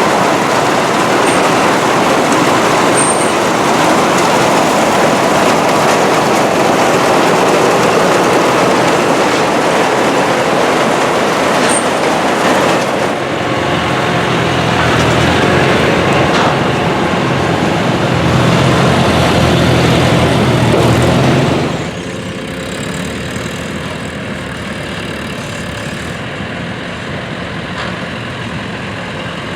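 Vintage farm machinery with its tractor engine running: a loud, steady mechanical din, which drops suddenly about 22 seconds in to a quieter, steady engine sound.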